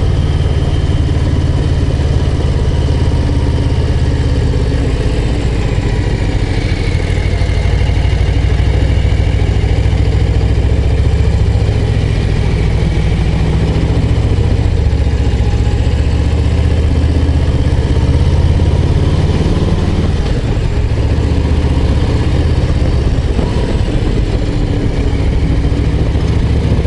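Harley-Davidson Low Rider ST's Milwaukee-Eight 117 V-twin running steadily as the bike is ridden, with a loud, even low rumble.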